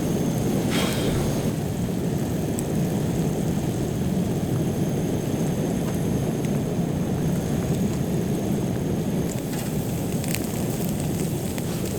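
Steady rain falling on a tent, with a dense low rumble and a few faint ticks near the end.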